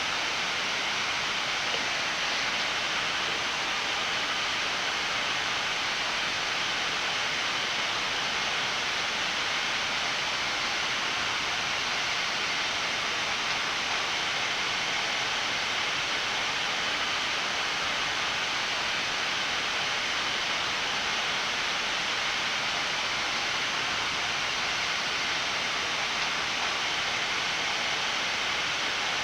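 Steady rushing hiss on the flight deck of a Boeing 787-9 on approach: the constant noise of air flowing past the cockpit and through its ventilation, unchanging throughout.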